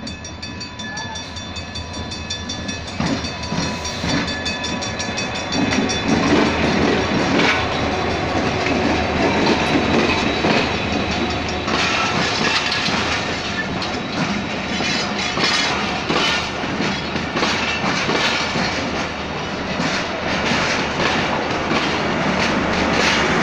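A diesel-electric locomotive draws near and passes, growing louder over the first several seconds, and the passenger coaches behind it roll by with a rapid clickety-clack of wheels over the rail joints.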